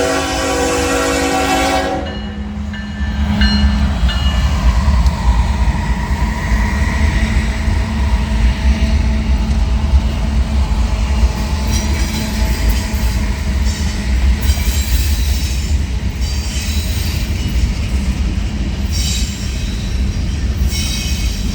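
Train horn sounding a chord that cuts off about two seconds in, then the train rolling past with a steady low rumble and wheel noise on the rails.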